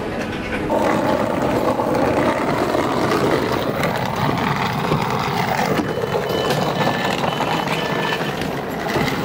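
Passenger train running with a steady rumble and rattle that grows louder about a second in. Faint intermittent beeping is heard about two-thirds of the way through.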